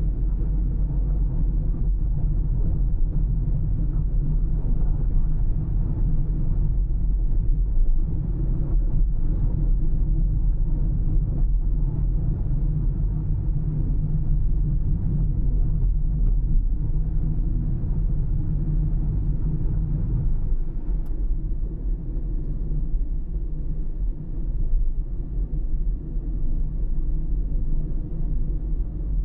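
Steady road noise from a car being driven, a continuous low rumble of engine and tyres on tarmac.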